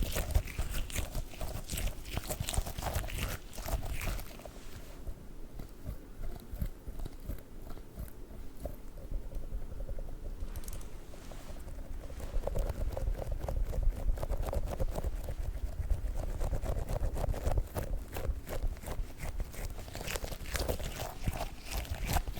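A squishy dog toy being squeezed and kneaded right at the microphone, a dense crackling squish with low handling thumps. It eases off to softer, duller handling for a few seconds about a quarter of the way in, then picks up again.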